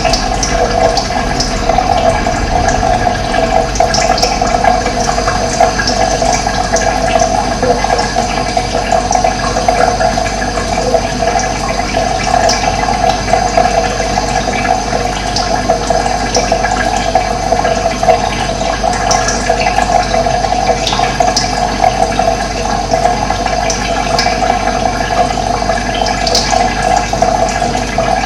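Running water rushing steadily, with scattered brief high chirps of birds over it.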